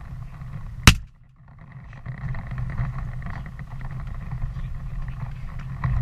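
A single shotgun blast about a second in, sharp and very loud, fired at a turkey. It is followed by a steady low rumbling noise.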